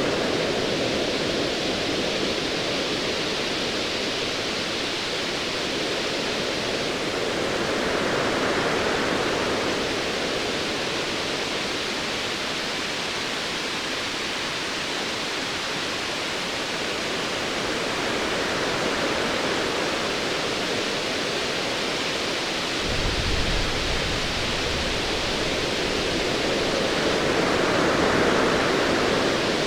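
Ocean waves surging in slow swells about every nine seconds over a steady wash of surf. About two-thirds of the way in, a deep low rumble of distant thunder comes in and carries on.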